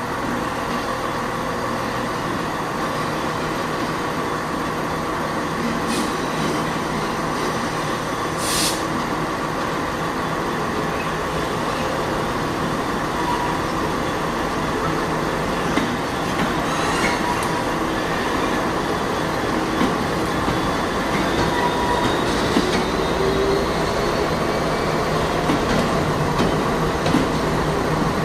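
A train running at a railway station: a steady engine and machinery hum, with a short hiss of air about eight seconds in, light clicks later on and a faint rising whine near the end.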